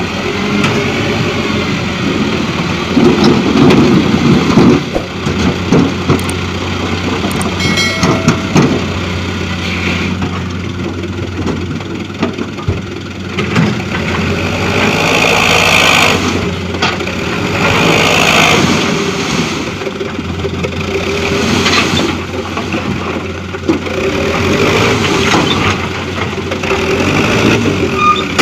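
Diesel engine of a light dump truck running and revving on a muddy track, its note rising and easing, with louder stretches about three seconds in and again in the middle.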